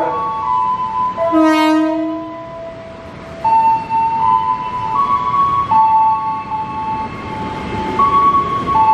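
Electric commuter train pulling out of the platform. A short horn blast sounds about a second and a half in, over a sequence of steady tones that step up and down in pitch.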